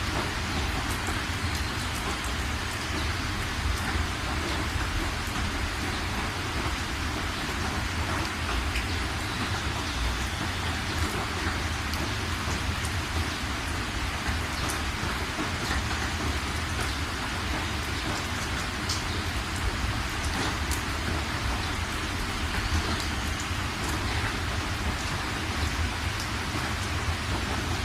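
Steady rain falling, an even hiss with scattered individual drops ticking sharply on a surface and a deep low rumble underneath.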